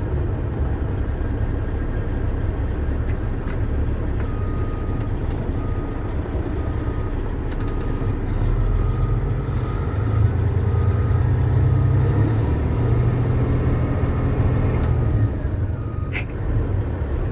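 Diesel engine of a 2007 International 9900i tandem-axle dump truck running with a heavy low rumble, working harder and louder for several seconds in the middle. From about four seconds in, a backup alarm beeps steadily, a bit under twice a second.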